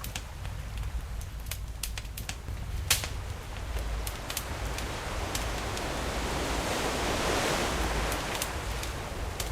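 Campfire crackling with scattered sharp pops, a louder pop about three seconds in, over the low rumble of the sea. A wave surges in and washes up the shore, swelling to a peak about two-thirds of the way through, then easing off.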